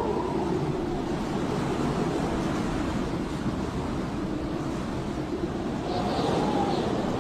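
Blizzard wind howling steadily, with a whistling tone that swells and bends up and down in a gust about six seconds in.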